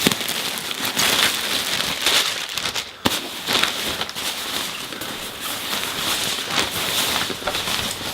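Plastic packaging crinkling and crackling as it is torn open and pulled off a folded nylon poncho liner, with many small sharp crackles throughout.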